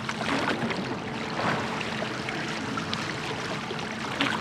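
Water rushing and splashing around a church boat (a large rowing boat) under way, with a few louder oar splashes.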